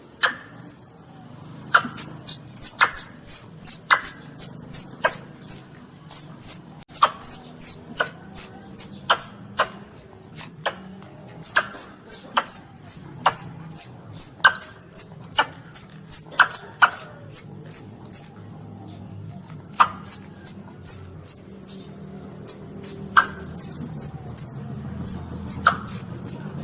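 High-pitched calls of a young Asian palm civet (luwak): short, falling squeaks repeated two or three a second in long runs, broken by a few brief pauses, over a faint low hum.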